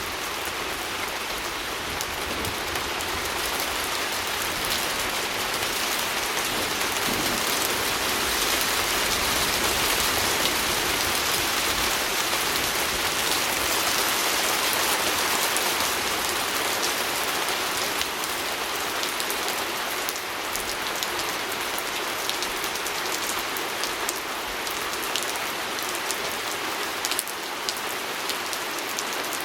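Steady rain on a window: an even hiss of rainfall with many fine drop taps, swelling a little in the middle and easing again.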